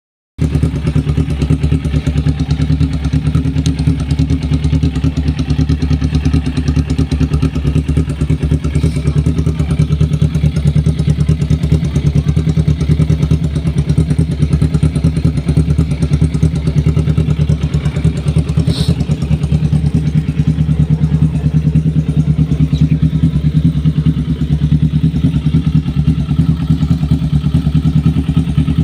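Carburetted Kawasaki Ninja 250 parallel-twin idling steadily through a Pro Speed aftermarket racing exhaust, with an even, unchanging note.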